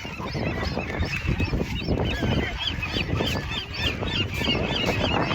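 A flock of gulls calling over one another: many short, arched calls in quick succession, growing busier about two seconds in, over a steady rushing background.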